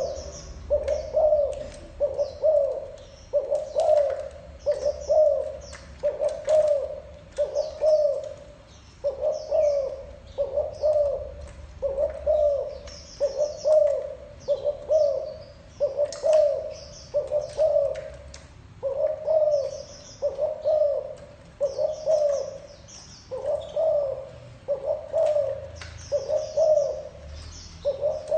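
Spotted dove giving its 'gù' coo: short low phrases repeated about every second and a quarter, with faint high chirps of small birds above them.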